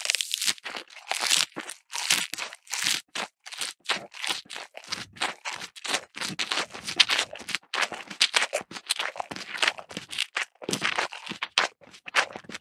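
Crunchy chewing and tearing of fresh grass, as of cattle eating, in quick irregular bites of about three a second.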